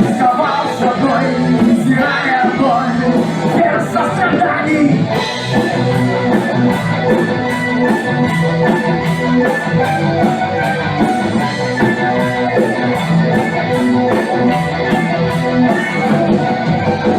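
Instrumental break of a rock song: guitar with a steady beat, without singing.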